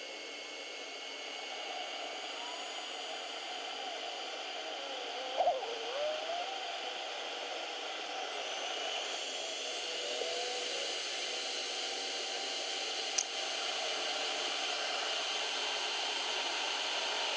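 Chinese diesel heater starting up: its blower fan runs with a steady whir that grows slowly louder as the fan speeds up. There is a single sharp click about thirteen seconds in.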